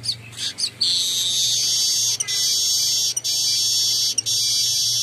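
Weaver bird (Manyar) singing: a few short falling chirps, then about a second in a long, high, dry buzzing trill broken by brief pauses.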